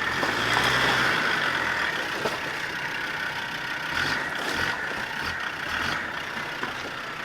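A 4x4's engine running steadily at low speed while crawling off-road, with a few short knocks partway through.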